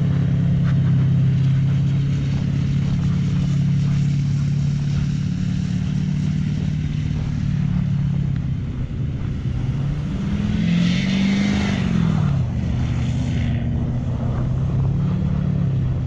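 LBZ Duramax 6.6-litre V8 turbo-diesel idling through a 3.5-inch straight-piped exhaust with no muffler and no catalytic converter, revved once briefly about ten seconds in, rising and falling in pitch with a hiss, then settling back to idle.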